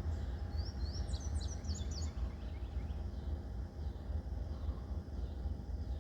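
A small bird chirping a quick run of high, sliding notes in the first two seconds, over a steady low rumble.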